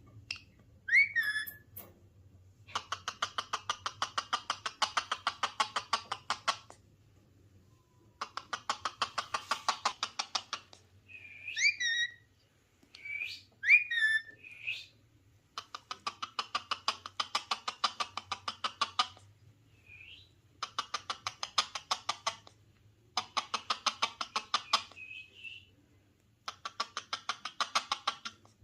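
Ring-necked parakeet calling: six runs of rapid repeated chattering notes, each a few seconds long, broken by short, sharp whistled squawks that sweep up and down in pitch.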